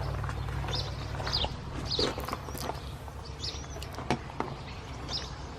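Scattered small clicks and knocks of parts being handled, over a steady low hum, with a few faint high chirps.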